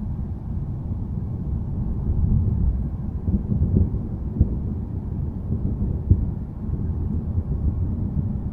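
Low, rolling thunder rumble, swelling about two seconds in, with two brief crackles near the middle.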